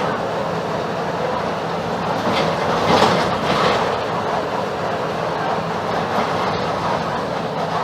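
Mercedes-Benz OF-1721 BlueTec 5 city bus under way: the diesel engine's steady drone with road noise and body rattles, heard inside the cabin. A louder burst of rattling comes about three seconds in.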